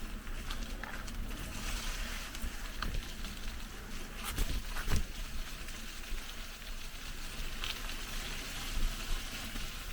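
Mountain bike moving over a rough forest trail: low rumble with scattered knocks and rattles, the sharpest a little past four seconds and at five seconds in, over a steady high hiss.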